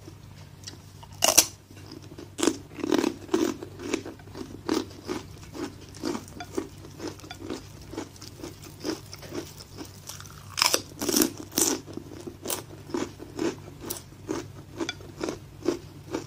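Close-miked crunching as a person bites into and chews kerupuk (crispy Indonesian crackers). A loud bite comes about a second in and more loud bites come around ten to eleven seconds, with steady crunchy chewing at about two to three crunches a second between them.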